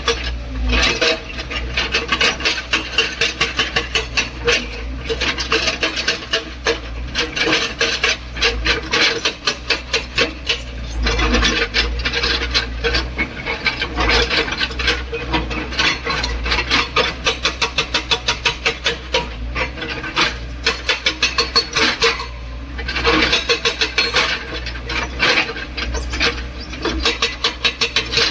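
Hydraulic breaker on a JCB excavator hammering in a rapid, steady train of blows over a low rumble, letting up briefly now and then.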